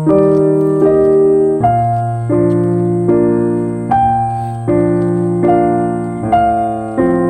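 Background music: slow, gentle piano or electric-piano chords, a new chord about every three-quarters of a second, each struck and left to fade.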